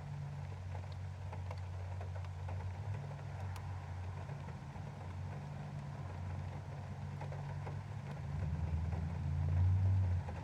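Raindrops ticking on window glass over a steady low rumble that swells to its loudest shortly before the end.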